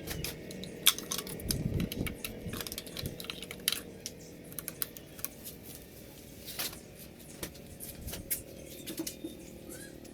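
Irregular light clicks and taps of small hard objects being handled, over a faint steady hum.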